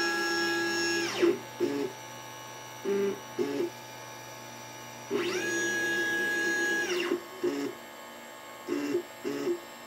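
LitePlacer pick-and-place machine's stepper motors whining through two long moves, each with a rising and falling pitch ramp as the motors speed up and slow down, and several short, quick moves in between.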